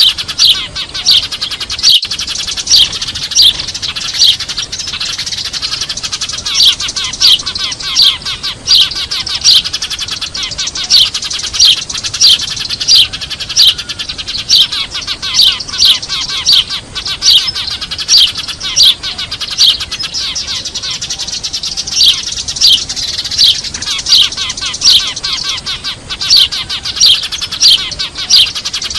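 Eurasian tree sparrows chirping noisily in a dense, continuous chatter, with loud sharp chirps repeating about one and a half times a second over it: a sparrow lure call for drawing wild sparrows in.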